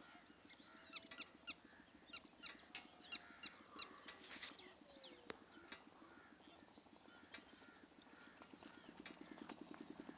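Faint outdoor ambience with scattered short bird chirps. Near the end an engine's steady chugging fades in and grows louder.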